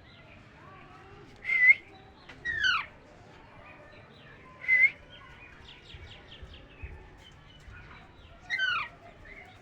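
A parrot calling in a few separate short calls: sharp squawks about a second and a half in and near the middle, and downward-sliding whistled calls at about two and a half seconds and again near the end.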